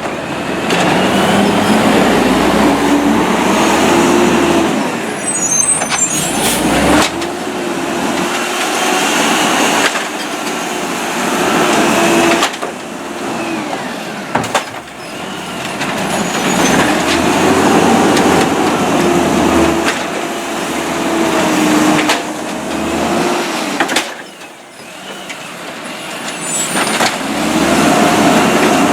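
Peterbilt garbage truck's diesel engine revved up and down by hand about four times, each rev rising and falling over several seconds, to drive the hydraulics of the Amrep Octo automated side-loader arm as it lifts and dumps carts. Between revs there are a few sharp knocks.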